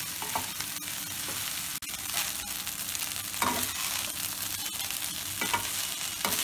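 Egg fried rice sizzling in a stainless steel kadai as a spatula stirs and tosses it, with a few short scrapes of the spatula against the pan.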